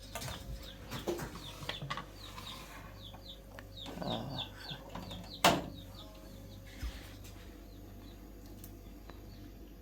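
Small birds or chicks chirping in a quick run of short, high, falling chirps, stopping about six seconds in. A few light clicks and one sharp knock about five and a half seconds in are heard among them.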